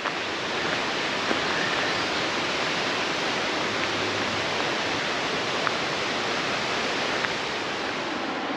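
Steady rushing of water from a creek or waterfall, an even roar with no breaks.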